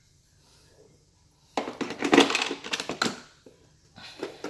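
Hard plastic parts being handled: a burst of crackling and clattering about one and a half seconds in, then a few more sharp clicks near the end.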